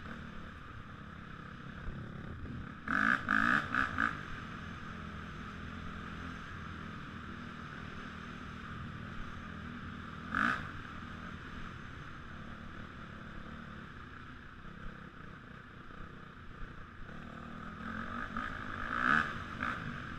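Honda CRF450R dirt bike's single-cylinder four-stroke engine running at low revs, with short throttle blips a few seconds in, around the middle and near the end.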